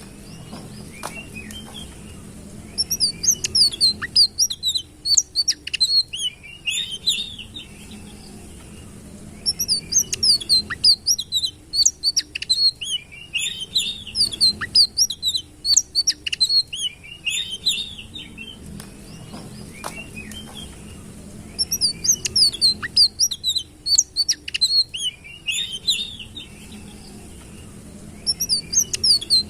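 Sitrun bird singing in bouts of rapid, high twittering and sweeping notes, each bout several seconds long with short pauses between them.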